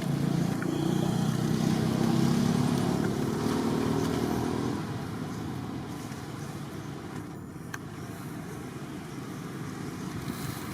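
A motor vehicle's engine running, a low hum that is loudest over the first four to five seconds and then fades away, leaving a fainter, even outdoor background.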